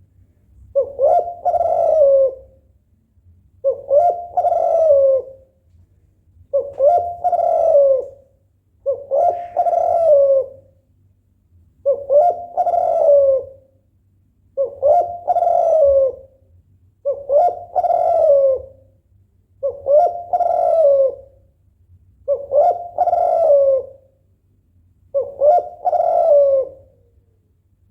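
Female spotted dove cooing, a rhythmic low coo phrase repeated about ten times, roughly every two and a half seconds. It is the call of a female in breeding condition, calling to a male.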